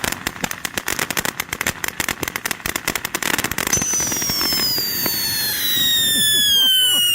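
Ground firework fountain crackling densely with rapid pops, then, about halfway through, a loud whistle starts high and glides steadily down in pitch.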